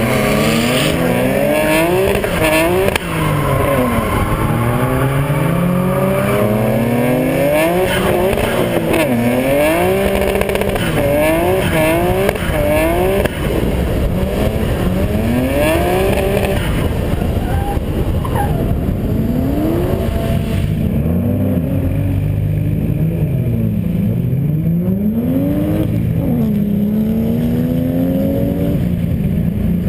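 Drift car's engine heard onboard, revved hard up and down over and over as the car is thrown through a drift run. In the last third the revs rise and fall less often, with less high-pitched noise.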